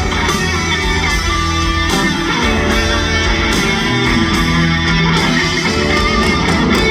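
Live rock band playing an instrumental passage between vocal lines, with guitar to the fore over bass and drums.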